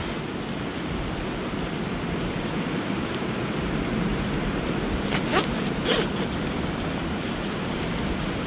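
Steady wind noise, with two brief rustles about five and six seconds in.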